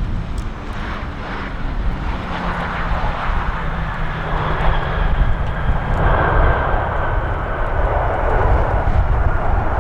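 Jet airliner on landing approach: steady engine roar with a faint whine, growing louder from about halfway through as the aircraft comes closer. Gusty wind rumbles on the microphone underneath.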